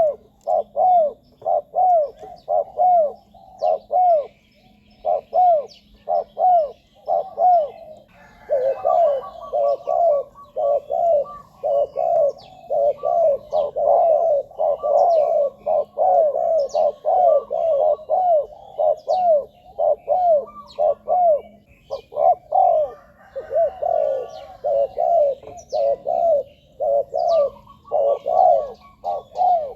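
Spotted doves cooing in a long run of short, arched coos repeated rapidly. The coos come denser and overlap from about eight seconds in, as if a second bird has joined. Faint chirps of small birds sound in the background.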